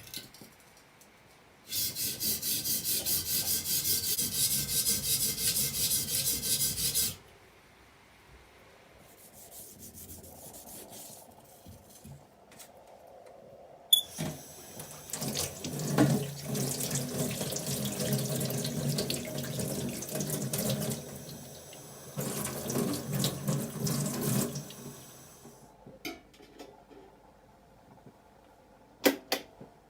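Tap water running into a sink for about five seconds, then shut off abruptly. Later the water runs again for about ten seconds with rubbing and handling under the stream, and a few sharp knocks come near the end.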